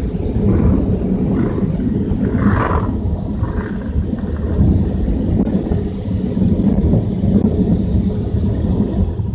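Car wash dryer blowers blasting air over the car, a loud steady roar that starts to die away at the very end.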